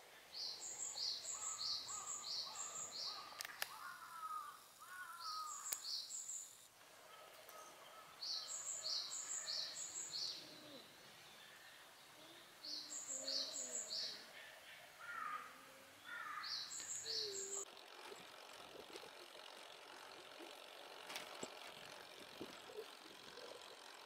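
A small songbird singing short phrases of two to five quick, evenly spaced high notes, repeated every few seconds, with a few lower chirps in between. From about three-quarters of the way through, only a steady outdoor hiss remains.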